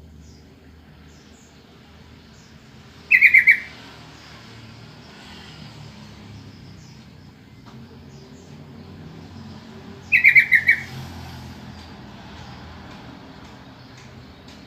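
Yellow-vented bulbul (trucukan) calling: two short bursts of about four quick bubbly notes each, roughly seven seconds apart, with faint chirps of other birds in the background.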